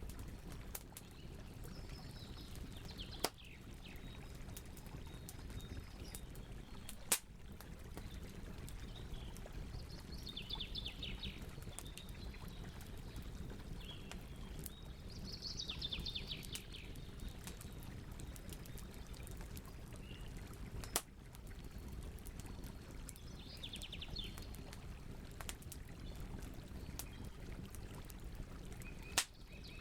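Campfire burning with steady crackling and four sharp, loud pops. Birds chirp in the background in short, rapid trills that come every few seconds.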